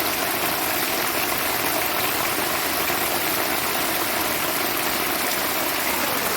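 Heavy rain pouring down, a steady dense hiss with no letup.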